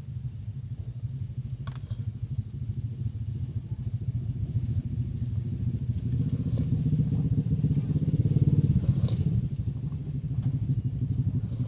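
A small engine running close by, with a rapid pulsing rumble that grows louder and rises slightly in pitch past the middle, then eases a little. A few faint clicks.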